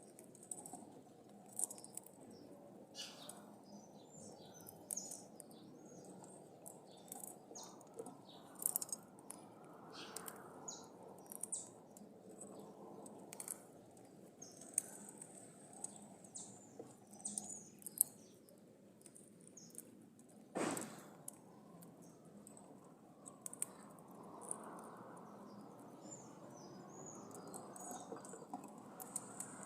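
Birds chirping in short, high calls scattered throughout, over a faint steady background hiss, with one louder, longer call about two-thirds of the way through.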